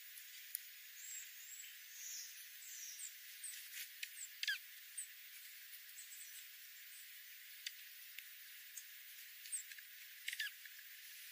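Faint high-pitched animal calls: scattered short chirps and squeaks over a steady hiss, with two quick downward whistles, one about four seconds in and one near the end.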